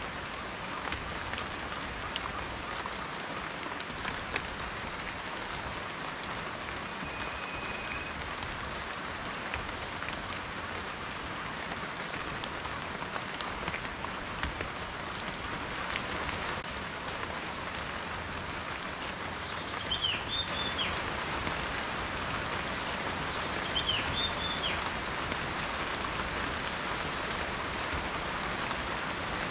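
Steady rain falling, a continuous hiss with individual raindrops ticking through it. Two short high chirps come about two-thirds of the way through.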